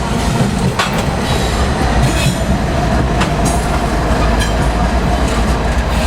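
A train passing close by: steel wheels clacking over rail joints in irregular clicks over a steady rumble, with a faint wheel squeal.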